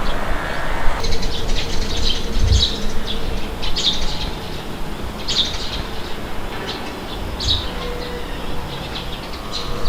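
Small birds chirping in short, scattered calls over a low, steady rumble of wind.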